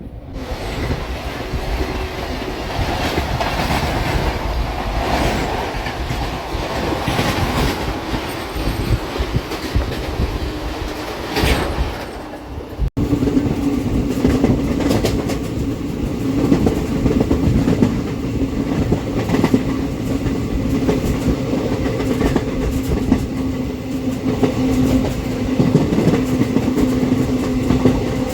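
Express passenger train running on the rails, a steady loud rumble with wheel clicks. It cuts off abruptly about 13 seconds in, after which a steady low hum joins the running noise.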